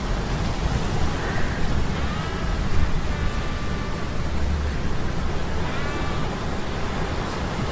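Sea-storm ambience: a steady rushing noise of wind, rain and surf over a deep rumble. Faint whining tones from humming metal gears slide up and down in pitch several times.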